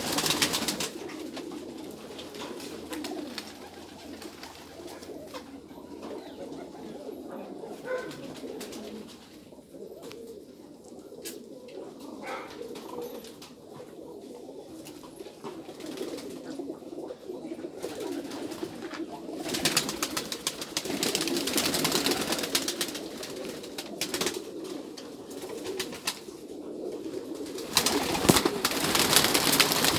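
Domestic pigeons cooing continuously, several birds overlapping in a low warbling chorus. A louder rushing noise comes in about twenty seconds in and again near the end.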